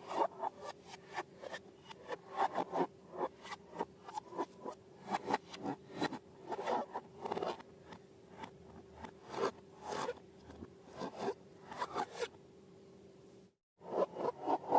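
Rapid, irregular clicking, crackling and scraping from handling slime and balloons during slime-making, over a faint steady hum. The sound cuts out for a moment near the end, then resumes.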